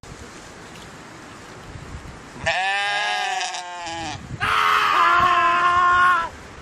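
A goat bleats twice, two long calls of about a second and a half each, the first starting about two and a half seconds in after a stretch of low background hiss.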